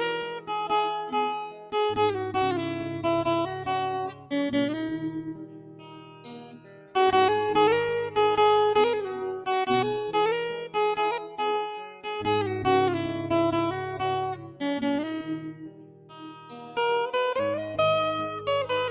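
Acoustic guitar music: plucked and strummed notes over a bass line, fading out briefly partway through before picking up again.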